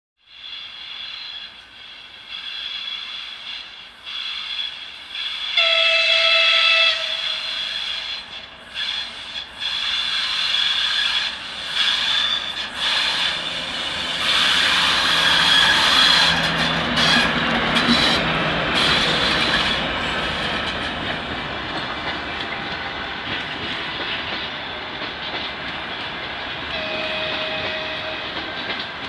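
A TEP70 diesel passenger locomotive and its train pulling in, the wheels squealing high and steadily on the rails. The locomotive's horn sounds for about a second and a half some six seconds in and again briefly near the end, and the rolling noise and engine swell in the middle as it passes close.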